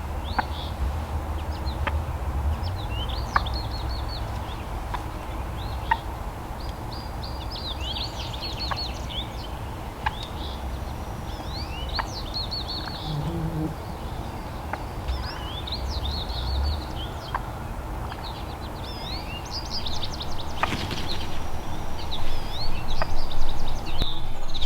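Small songbirds chirping and singing in short, rapid high notes, many calls overlapping, over a steady low rumble, with a few faint ticks now and then.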